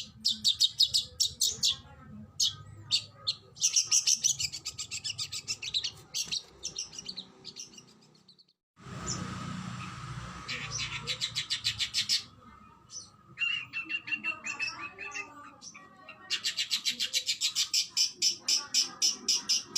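Oriental magpie-robin (kacer) singing in fast, rapid-fire runs of repeated high notes, the 'tembakan' bursts used in masteran. The song cuts out briefly about eight and a half seconds in, then resumes, with a lower run of notes partway through.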